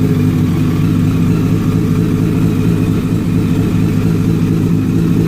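Motorcycle engine idling steadily after being jump-started with cables, running evenly with no revving, a healthy idle the owner says sounds "like a champ".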